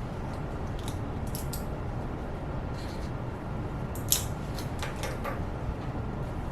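Steady low background rumble, with a few small clicks and ticks from objects handled at a desk while studying. The sharpest click comes about four seconds in, and a short cluster follows about a second later.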